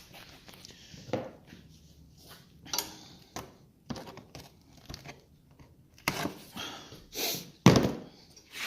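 Handling sounds of a mud-saturated blue foam HVAC filter: irregular tearing and crinkling with scattered knocks, the loudest knock about three quarters of the way in.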